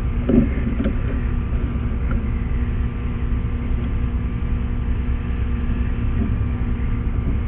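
Steady low mechanical rumble with a constant electrical hum, as of machinery running.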